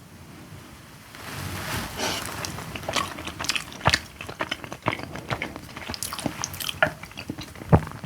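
Person eating close to the microphone: chewing and biting with a quick run of small crunchy clicks and smacks, and one louder knock near the end.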